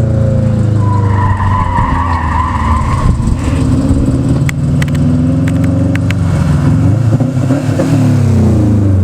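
2016 Subaru WRX STI turbocharged flat-four running loud through a newly fitted ETS Extreme cat-back exhaust, its pitch falling, rising and falling again as it revs. A high whine sounds for a couple of seconds about a second in, and a few sharp pops come around the middle.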